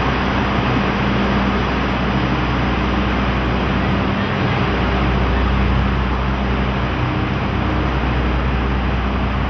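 Blue sleeper-express passenger coaches rolling slowly along a station platform as the train pulls in, a steady running noise with a low hum underneath.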